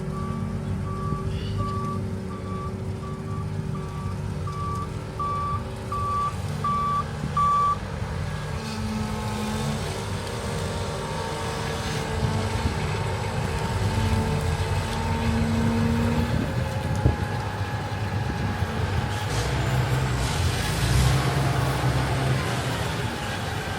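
A heavy vehicle's reversing alarm beeps evenly, a little more than once a second, over a running engine. The beeping grows louder and stops about eight seconds in, and the engine note then shifts.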